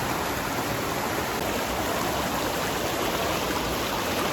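Steady rushing of a shallow, fast-flowing forest stream.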